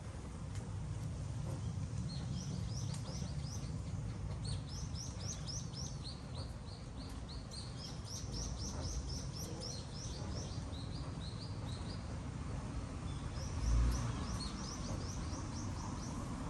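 A small bird calling in long runs of quick, high chirps, about five or six a second, pausing and starting again near the end, over a steady low rumble. A single dull thump comes shortly before the end.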